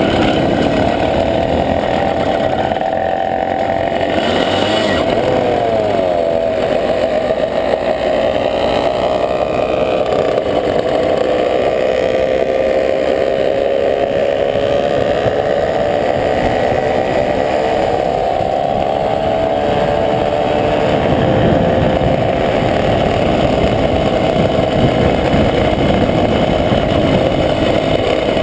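Motorcycle engine running while riding, its pitch gliding up and down with changes in speed, over a steady rushing noise.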